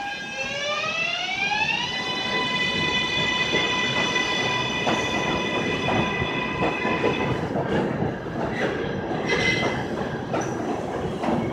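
Electric subway train pulling away, its propulsion motors whining: a stack of tones climbs in pitch over the first two seconds, then holds steady until about seven seconds in. Underneath runs the rumble and clatter of the wheels on the rails.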